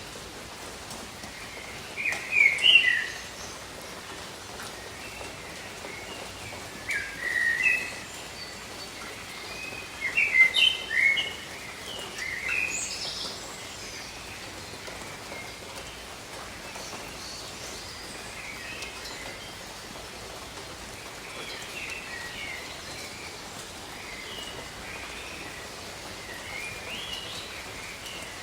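Steady rain falling over jungle, with birds calling in loud clusters of chirps and warbles about two, seven, ten and twelve seconds in, then fainter calls through the rest.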